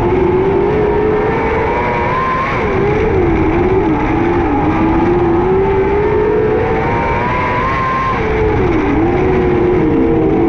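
A 600cc micro sprint car's motorcycle engine at racing revs, its pitch climbing steadily down the straights, then dropping and wavering twice as it lifts off for the turns before climbing again.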